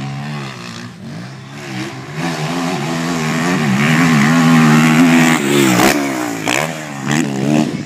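Motocross bike engine revving up and down, growing louder to its loudest about four to five seconds in, then falling away.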